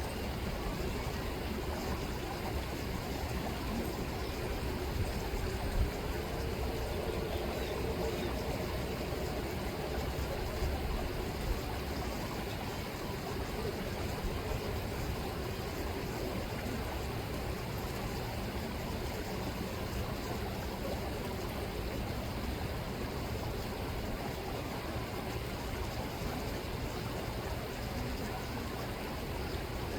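River water rippling and rushing steadily, with a low rumble underneath.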